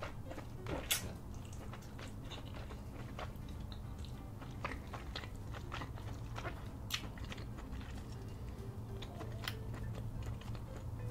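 Close-miked eating sounds: wet chewing and smacking of seafood boil in cheesy sauce, with scattered sharp clicks, over a low steady hum.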